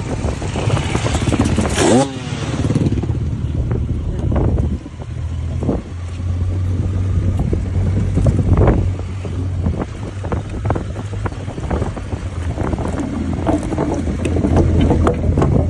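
Motorcycle engine running steadily at low road speed, with frequent short knocks and clatters over it. An engine note falls about two seconds in.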